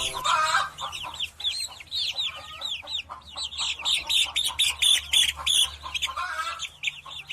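Chickens clucking and cheeping, with many short, high calls following each other several times a second.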